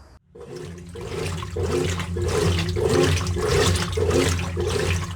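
Brastemp Active 11 kg washing machine running its wash cycle: a steady motor hum with water churning back and forth about twice a second. It runs with no rattle now that the loosened bolt on the spin kit has been tightened.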